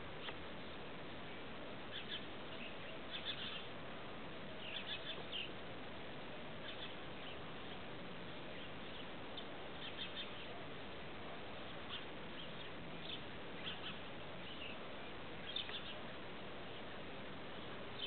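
Small birds chirping now and then, short high chirps every second or two over a steady background hiss.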